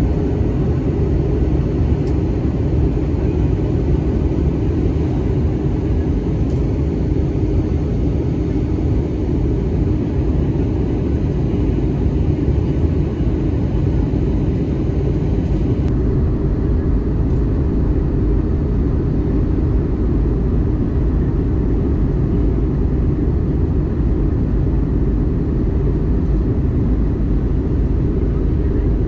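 Steady low rumble of an Airbus A320neo's cabin in flight on descent: engine and airflow noise heard from inside the cabin. About halfway through, the higher hiss drops away abruptly while the low rumble carries on.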